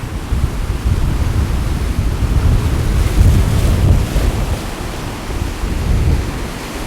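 Sea waves washing on the shore under gusty wind, the wind buffeting the microphone into a heavy low rumble. The hiss of the water and wind swells about three seconds in, then eases.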